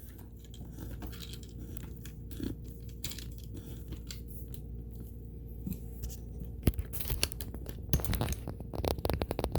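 Scattered clicks and scraping of tools and parts being handled on a sewing machine as it is taken apart for cleaning, getting busier and louder near the end.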